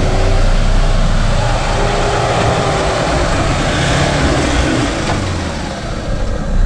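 Four-wheel drive's engine working under load as it climbs a slippery track, with a dense rush of noise over the steady engine note.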